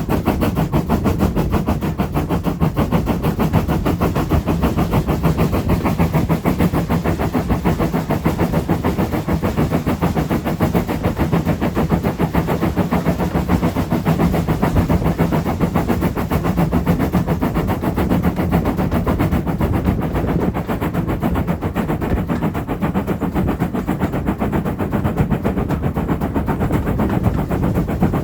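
Steam train running, a continuous rapid clatter of many quick beats a second.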